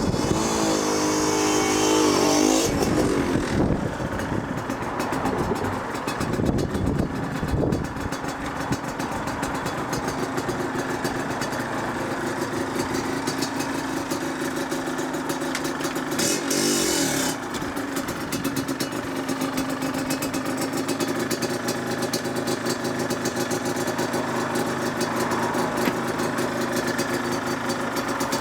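Yamaha DTR 125 single-cylinder two-stroke engine revving and idling through its exhaust. It revs up in the first couple of seconds and again about sixteen seconds in, and otherwise runs at a steady idle.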